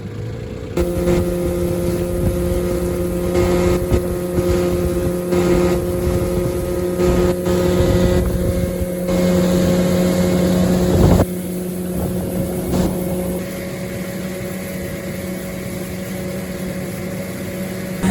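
9.9 hp Johnson outboard motor on a jon boat running at a steady speed under way, with wind buffeting the microphone. One sharp knock about eleven seconds in, after which the motor sounds a little quieter.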